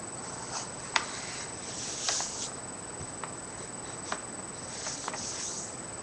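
A sheet of A4 paper being handled and folded: scattered sharp ticks and creases, the loudest about a second in, with two short rustles around two and five seconds in.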